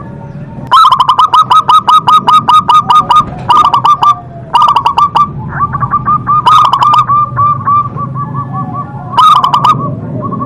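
Zebra dove (perkutut) cooing loudly in rapid trains of short, evenly repeated notes, several phrases separated by brief pauses, over a low steady hum.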